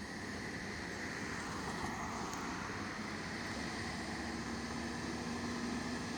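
Fire engine running steadily, with a hum that rises slightly in pitch about three seconds in.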